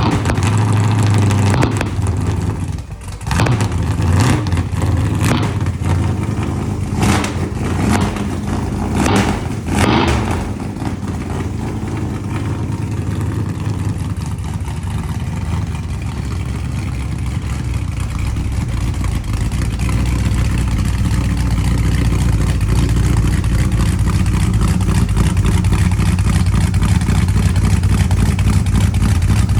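Car engine just started after sitting all winter on a jump-start, blipped several times in the first ten seconds, with a brief sag near the start, then settling into a steady, rumbling idle.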